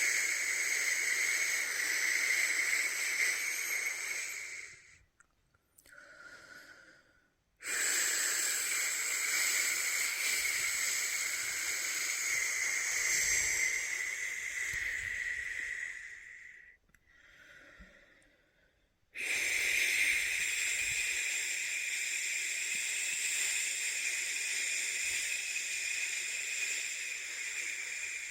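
A person making long, steady 'shhh' shushing sounds to lull a newborn to sleep. The sound comes as three long shushes, each several seconds long, broken twice by short pauses for breath.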